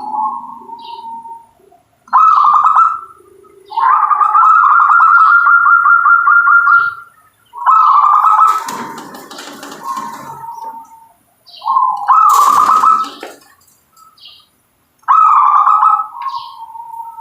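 Local zebra dove (perkutut) singing: about five loud cooing phrases around the same pitch, one of them a long rolling trill lasting about three seconds, with a brief rustling noise under two of the phrases.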